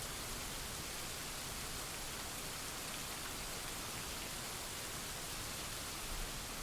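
Steady heavy rain falling, an even hiss of drops, with a small low thump about six seconds in.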